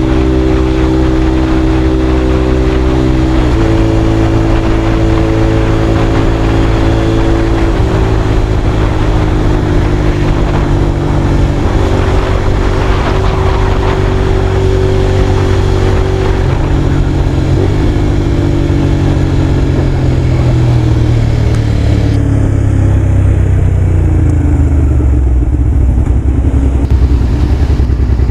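Honda VTR250's V-twin through a WR'S full exhaust with carbon silencer, riding under way: a steady exhaust note that changes pitch in steps a few times, then falls in pitch over the last few seconds as the bike slows.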